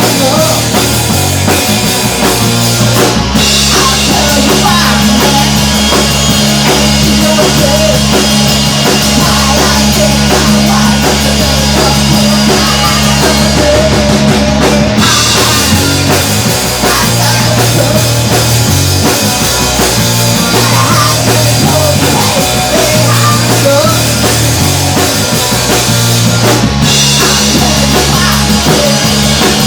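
Punk rock band playing loud, driven by a drum kit over a shifting bass line, with cymbals crashing hard for stretches.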